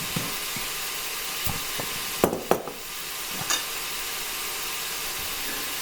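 Beef frying in a pan with a steady sizzle, and a few light clicks and knocks, the sharpest cluster about two and a half seconds in.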